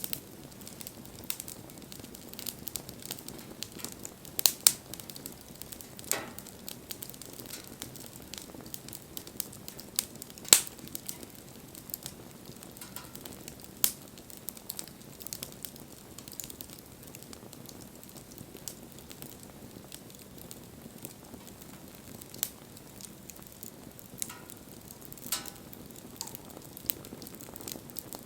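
Campfire burning, crackling steadily with scattered sharp pops, the loudest about four and a half and ten and a half seconds in.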